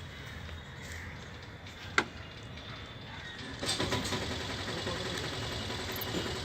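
Outdoor background noise with a motor vehicle engine running. A single sharp click comes about two seconds in, and the noise grows louder and busier about three and a half seconds in.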